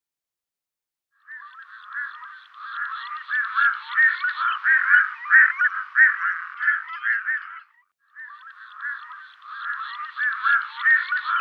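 A recording of bird calls: a dense run of short calls that grows louder, breaks off about eight seconds in, and starts over from the beginning a moment later.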